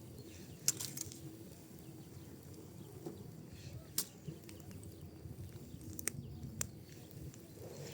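Wood and pinecone fire crackling in a fireplace: a handful of sharp, irregular pops and snaps over a low, steady rumble of the flames, the loudest pop about a second in.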